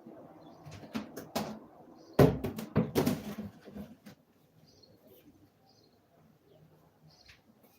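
Several sharp knocks and bumps, the loudest about two seconds in, then faint, sparse high bird chirps over a quiet background.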